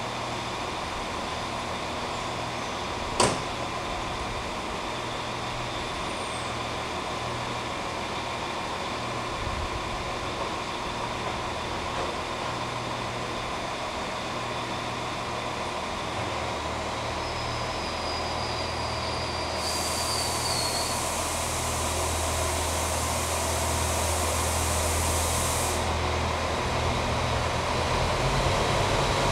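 Diesel multiple-unit train running at the platform. Its engine note builds from about halfway as it starts to pull away. There is a sharp knock a few seconds in and a hiss of air for several seconds about two-thirds through.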